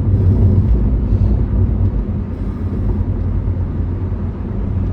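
Steady low vehicle rumble, like a motor vehicle running on the road, with no breaks or sudden sounds.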